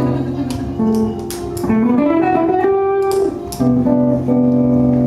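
Guitar playing sustained notes, with a note sliding upward in pitch about two seconds in before settling on a held higher note.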